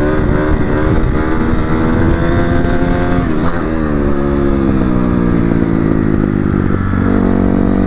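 Dirt bike engine running while being ridden, its pitch changing about three seconds in, sinking slowly after that, then climbing again near the end.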